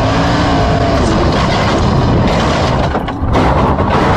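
Sprint car engine running hard at speed, its pitch sliding slowly down over the first second or so, then buried in a dense, rough noise of race cars for the rest of the stretch.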